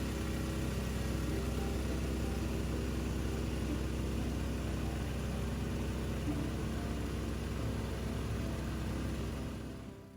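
Gasoline engine of a gold suction dredge running steadily, fading out near the end.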